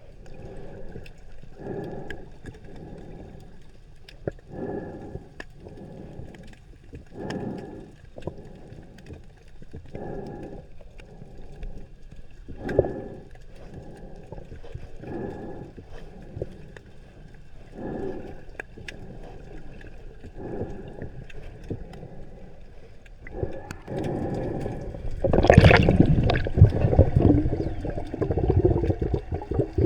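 Underwater breathing through a scuba regulator: a regular breath about every two and a half seconds, then, near the end, a louder rush of gurgling exhaled bubbles.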